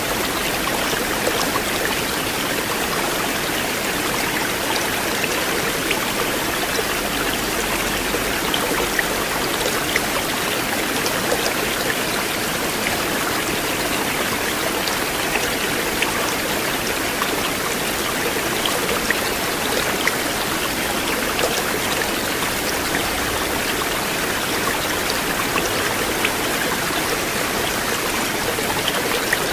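River water flowing, a steady rush with small scattered splashy ticks.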